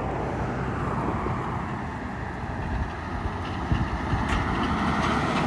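Steady engine and road rumble of a lowered Chevy pickup, heard from inside the cab while driving.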